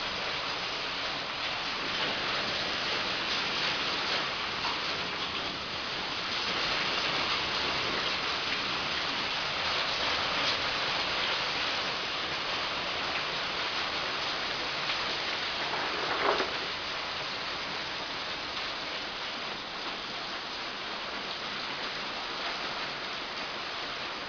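Rain falling steadily, a dense even hiss, with a single short knock about sixteen seconds in.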